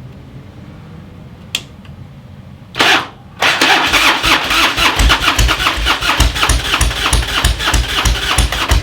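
Harley-Davidson Street Glide V-twin being cranked on its electric starter: a short press about three seconds in, then a long run of fast, even cranking pulses as it tries to catch. The carbureted engine is cold with the choke not pulled out and no throttle given.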